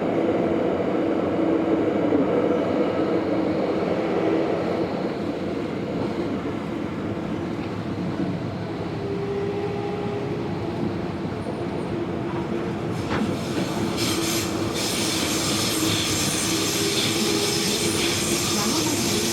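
Tobu 70000 series train running, heard from inside the passenger car: a steady rumble of wheels on rail with a held tone underneath. About 13 seconds in, a bright hiss rises suddenly across the high range and carries on.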